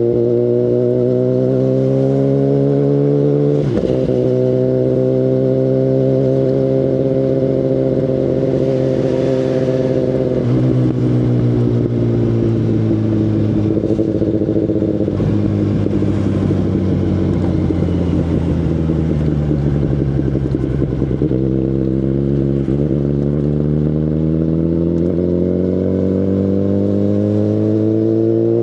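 Exhaust of a 2019 Kawasaki Ninja ZX-10RR's inline-four through an Akrapovic Evolution Line carbon full system, heard from on the bike while riding. The engine note rises, drops sharply about four seconds in, holds, then falls away slowly as the bike slows through the middle and climbs again over the last several seconds.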